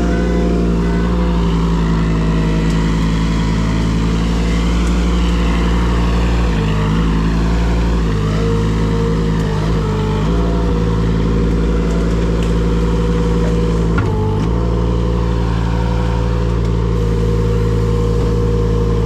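An engine running steadily, its tone dipping and shifting briefly a few times as the load changes.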